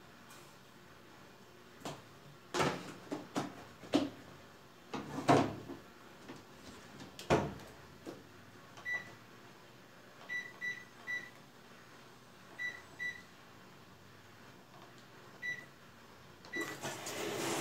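Brastemp Advantech Wash washing machine being set up: a few knocks and clicks, then about eight short beeps from its control panel as buttons are pressed, likely while selecting the wool/extra-delicate cycle. Near the end a steady rushing noise starts and grows.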